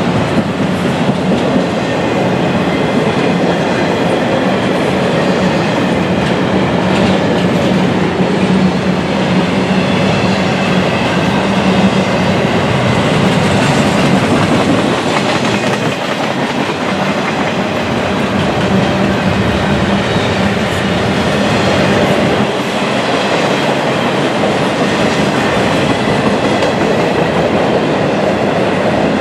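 Double-stack intermodal freight train rolling steadily past, its well cars' steel wheels running along the rails in a continuous rumble.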